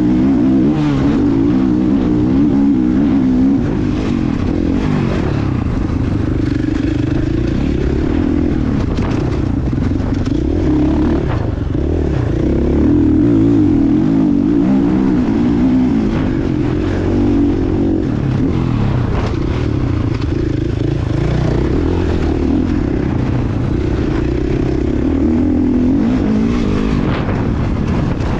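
Motocross bike engine running hard, its pitch rising and falling again and again as the throttle is opened and closed, with a constant deep rumble beneath.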